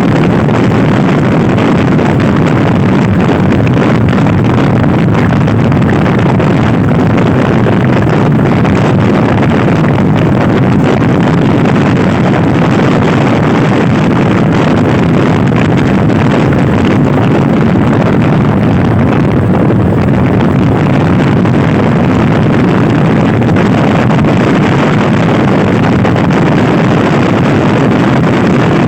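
Wind buffeting the microphone of a Honda Scoopy-i scooter ridden at speed, loud and steady, with the small engine running beneath it.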